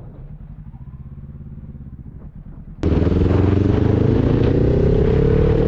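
Motorcycle engine idling low with a pulsing beat. About three seconds in, a much louder stretch starts abruptly: the engine pulling under acceleration, its pitch rising steadily, with wind rush over it.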